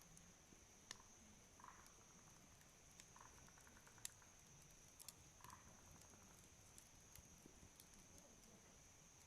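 Faint campfire crackle: scattered sharp pops and ticks from burning wood, about one a second, with one stronger pop about four seconds in.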